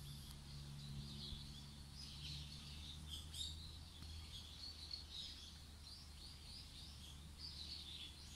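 Faint chirping of small birds, short high calls over and over, above a low steady rumble.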